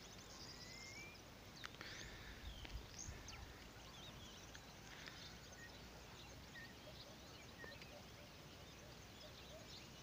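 Faint birdsong: scattered short chirps and whistles from several small birds, over a low steady hiss.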